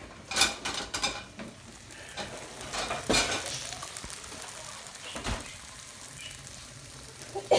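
Pots and pan lids clattering and knocking as someone rummages for a lid, with a cluster of clatters in the first second, another near three seconds and a heavier knock about five seconds in, over the faint steady sizzle of a pan of green beans cooking.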